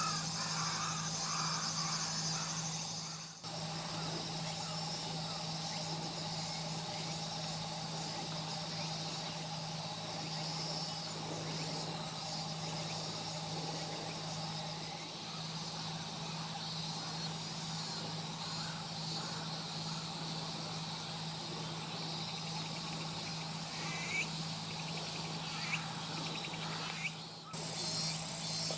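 Steady, high-pitched chorus of insects stridulating, with a steady low hum underneath. It cuts out briefly about three seconds in and again near the end, and a few short rising chirps sound shortly before the end.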